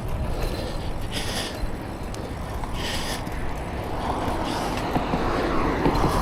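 Wind rumbling on a neck-mounted action camera's microphone while riding a bicycle, over the hiss of the tyres rolling, with the rider's breaths every second or two.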